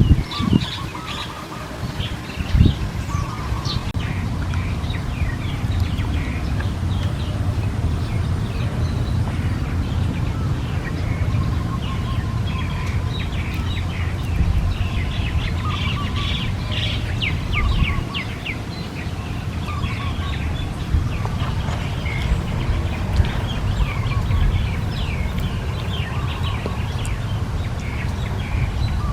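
Small birds chirping and twittering in many short, rapid notes throughout, busiest around the middle, over a steady low rumble. A couple of thumps sound in the first few seconds.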